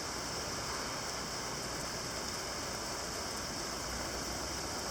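Heavy rain falling steadily in a downpour, an even hiss of rain on surfaces.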